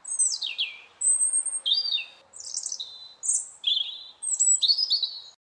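A songbird singing a quick run of varied high phrases, some sweeping steeply down in pitch. The song cuts off abruptly near the end.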